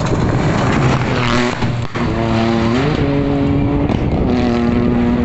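Rally car at speed over a jump, with a rush of noise about a second in, then the engine note rising in pitch and holding steady at high revs.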